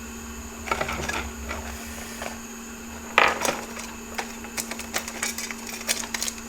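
Small tools clicking and clattering on a workbench, with short scratchy strokes, over a steady low electrical hum. The loudest clatter comes about three seconds in.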